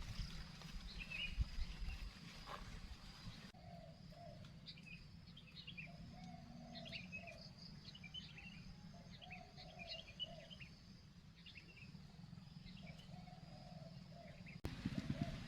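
Faint chirping of small birds over a steady low rumble of strong wind on the microphone, with a single knock about a second and a half in.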